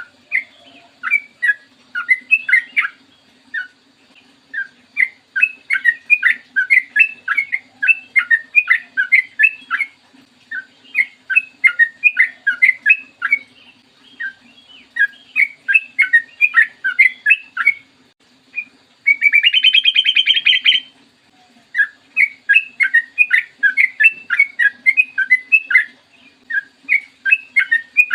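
Yellow-vented bulbul (trucukan) singing long, rapid runs of bubbly chirping notes in phrases separated by short pauses, with one harsh buzzy burst about two-thirds of the way through. A faint steady hum lies underneath.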